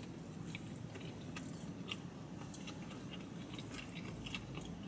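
A person biting into and chewing a mouthful of pulled pork sandwich on a soft bun: faint, irregular small wet mouth clicks close to the microphone, over a low steady hum.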